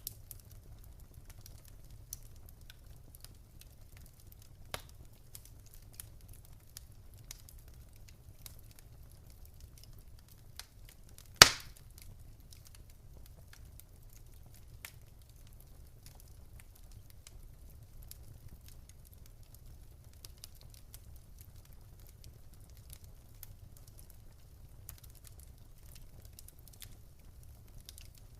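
Fire in a fireplace crackling, with scattered small pops and ticks over a faint low rumble, and one loud sharp pop about eleven seconds in.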